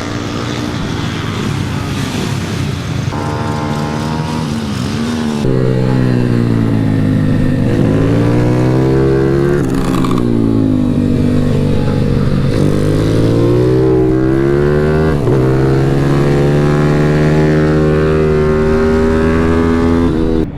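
Pit bike engine at racing revs, its pitch climbing and then dropping sharply several times, rising through the gears and shutting off as it goes round a track. It gets louder about five seconds in.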